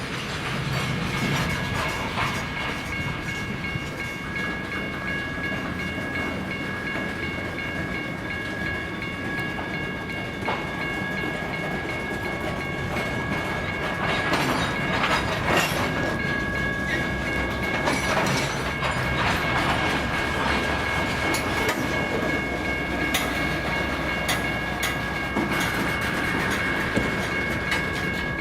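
Loaded rock-train freight cars rolling past, wheels clacking over the rail joints in an irregular rhythm, with a steady high-pitched ringing tone held over the rumble.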